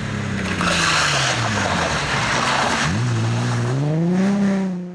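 Rally car engine dropping in revs under braking, with a burst of tyre noise, then picking up sharply about three seconds in and climbing hard as the car accelerates away.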